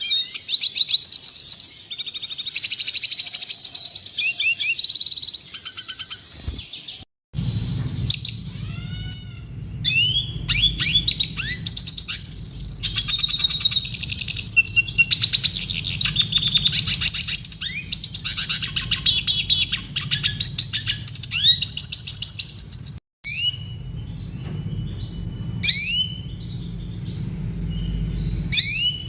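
Red siskin singing a long, rapid, high twittering song of trills and chirps. The sound cuts out briefly about seven seconds in and again about twenty-three seconds in, and a low hum lies under the song after the first break.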